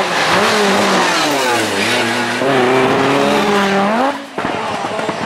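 Group B rally car engine revving hard under load, its pitch climbing and dropping as it goes through the gears. About four seconds in the sound briefly drops away, then engine noise picks up again.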